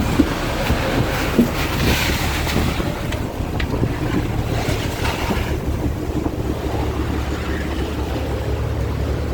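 Wind buffeting the microphone over a steady low drone, with a few sharp knocks in the first couple of seconds; the drone grows stronger about halfway through.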